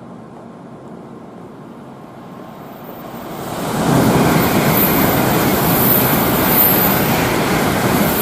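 Tokaido Shinkansen bullet train passing through the station at high speed without stopping: a low rumble, then a rush of air and wheel noise that swells quickly about three seconds in and stays loud.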